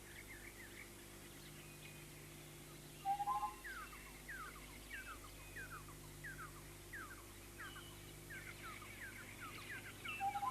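Red-and-yellow barbets calling: a run of short, quick falling chirps, with a louder two-note call about three seconds in and again near the end.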